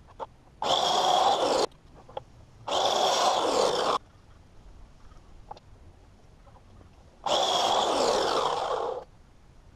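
Compound miter saw cutting pine boards: three short cuts, each starting and stopping abruptly, the second about two seconds after the first and the third a few seconds later, with light knocks from handling the wood between them.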